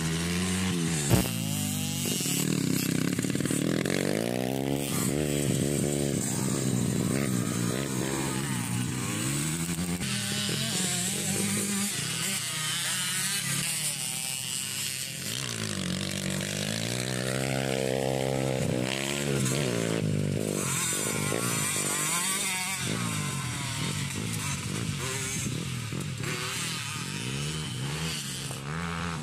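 Motocross bike engines revving hard, their pitch climbing and falling again and again as several bikes race past and overlap. A sharp knock about a second in.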